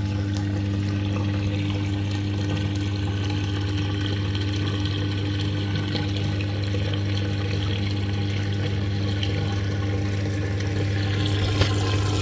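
Living & Co 5.5 kg top-loader washing machine running, with water rushing through it over a steady electrical hum from its pump or valve. There is a brief click near the end.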